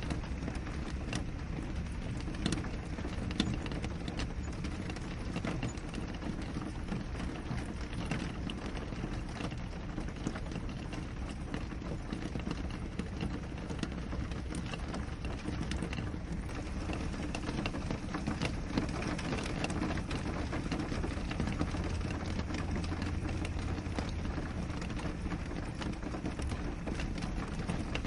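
Steady rain falling on a window pane: an even wash of rainfall dotted with many small ticks of single drops striking the glass.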